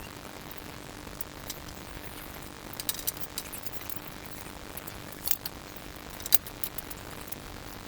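Scattered light metallic clinks and clicks, a few close together about three seconds in and the sharpest a little past six seconds, over a faint steady hum.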